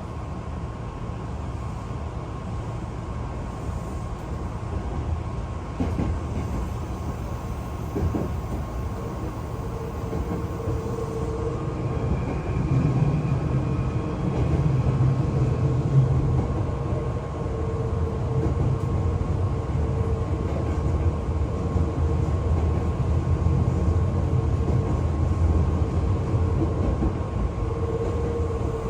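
Hankyu Kyoto Line local train heard from inside the carriage as it runs at reduced speed for high wind: a steady low rumble of wheels and running gear that slowly grows louder. A steady hum comes in about ten seconds in.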